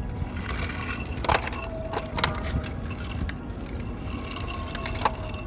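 Small plastic toy cars being dropped one by one into a toy dump truck's bed: a handful of light clicks and knocks spread apart.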